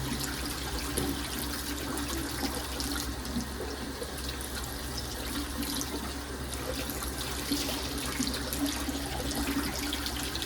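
Water running steadily from a tap into a sink while dishes are being sorted, with light clicks over it.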